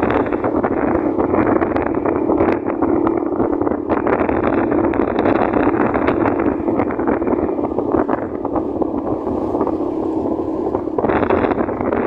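Motorcycle riding along a road, its engine running steadily under heavy wind rush on the microphone; the rush eases for a few seconds about eight seconds in, then returns near the end.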